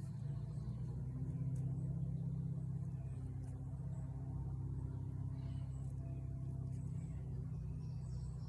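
Steady low hum of an engine or motor running, its level nearly even throughout.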